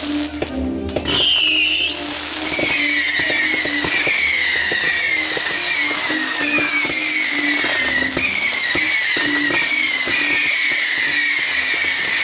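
Fireworks going off: a run of short whistles, each falling in pitch, more than one a second, over dense crackling pops.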